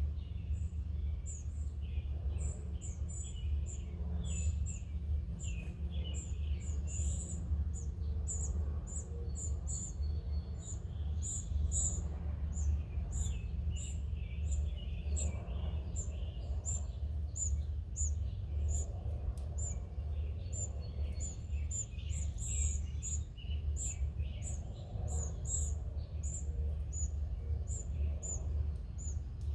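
Small wild birds chirping and calling, many short sharp high chirps repeating quickly throughout, over a steady low rumble.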